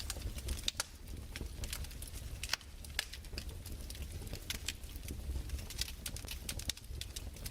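Fireplace crackling: irregular sharp pops and snaps, several a second and uneven in loudness, over a steady low rumble.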